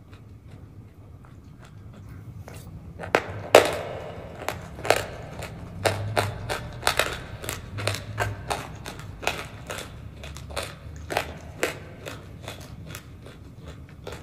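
Close-miked eating sounds: a mouthful of thick, creamy food being chewed, with a rapid, irregular run of sharp crunches and wet crackles that starts about three seconds in.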